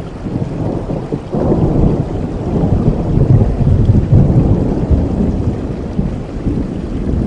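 Steady rain with a long, low roll of thunder that swells suddenly about a second in, is loudest in the middle and slowly dies away.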